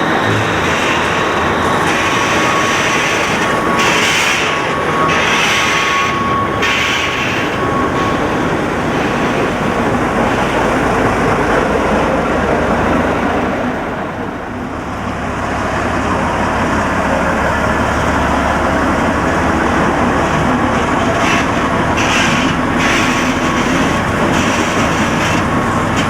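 DR V60 diesel-hydraulic shunting locomotive running along the track, its engine giving a low steady hum, with the noise of the moving locomotive and its wheels. The sound eases briefly about halfway through, then the engine hum comes on stronger.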